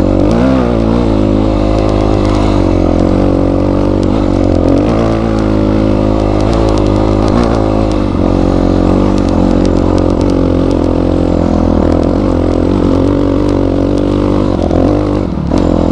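Motorcycle engine running under constantly changing throttle while riding off-road, its pitch wavering up and down, with faint scattered clicks over it.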